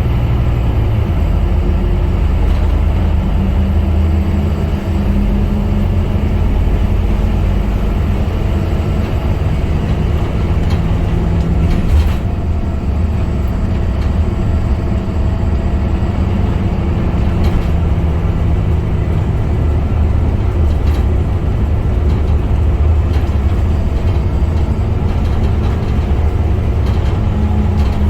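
Scania K250UB city bus's diesel engine running as the bus drives, its note rising and falling with a steady low hum. There is one sharp knock about twelve seconds in.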